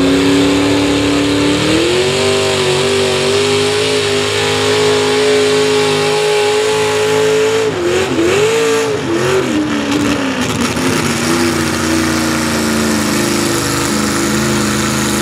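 Pulling truck's engine running hard at high revs, pulling the sled. The revs climb about two seconds in and hold steady, stumble up and down around eight seconds in, then settle at a lower, steady pitch.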